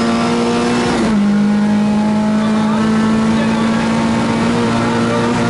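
Rally car engine pulling hard, heard from inside the cabin. About a second in the pitch drops sharply as it shifts up a gear, then it climbs steadily again as the car accelerates.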